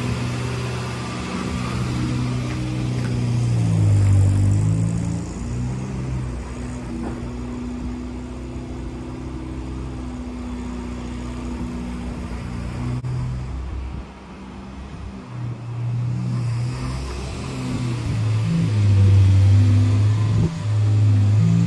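Morris Minor's four-cylinder engine running as the car is driven out of the garage, turned around and reversed back in. The engine note climbs about four seconds in, settles lower, drops in level around the middle as the car moves farther off, and grows louder again near the end as it comes back.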